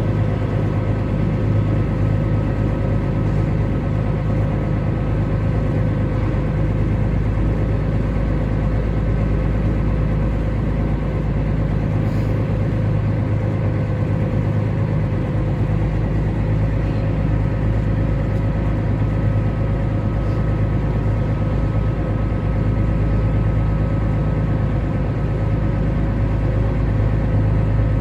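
Small ferry's diesel engine running steadily under way, a constant low drone with a steady hum that does not change in pitch.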